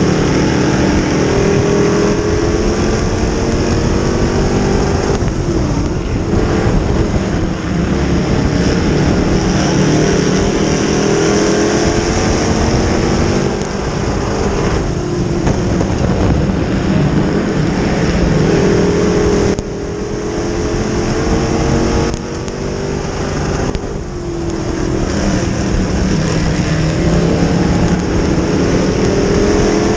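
Dirt-track modified race car engine running hard at high revs, its pitch repeatedly climbing and falling as it accelerates and backs off. The sound changes abruptly a few times in the second half.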